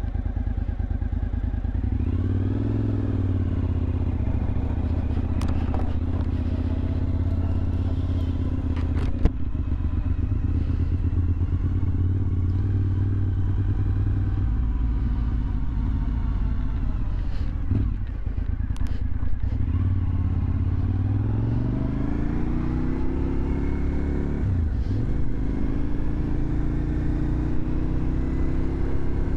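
2001 Suzuki TL1000R's V-twin engine running through a LeoVince aftermarket exhaust while the bike is ridden, its pitch rising and falling. About two-thirds of the way in it climbs in long rising sweeps as the bike accelerates. There is a single sharp click about nine seconds in.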